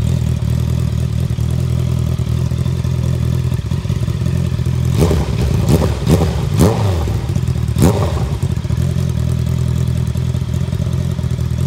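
Honda CBR650R's inline-four engine idling, with a few quick throttle blips about halfway through that rise and fall in pitch before it settles back to idle.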